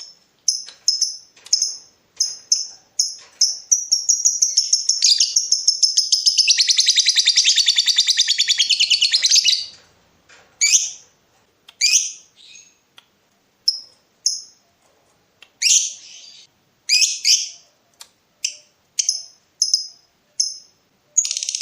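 Lovebird calling: sharp high chirps in quick succession that run into a long, fast chattering trill (ngekek) of about six seconds, followed by separate chirps spaced a second or so apart.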